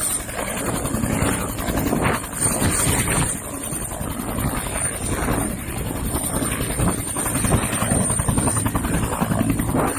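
Bell 212 twin-turbine helicopter hovering, its two-blade main rotor beating in a steady rumble over a constant high turbine whine.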